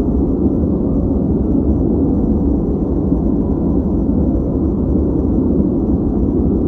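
Steady ambient noise track, deep and muffled rather than hissy, at an even level with no change or events.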